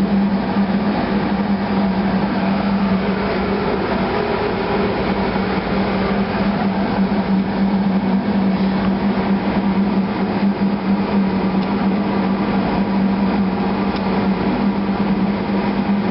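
Steady, loud engine-room machinery noise with a strong, even hum that holds without change.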